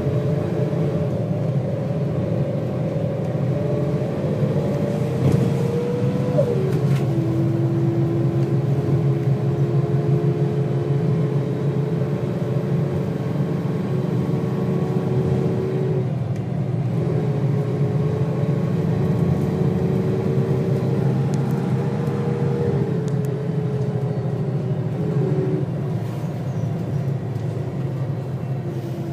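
Volvo B6BLE bus's six-cylinder diesel and ZF automatic gearbox heard from inside the saloon, running under load with a steady low rumble. Its pitch climbs slowly and drops sharply as the gearbox changes up, about a quarter of the way in and twice more near the end.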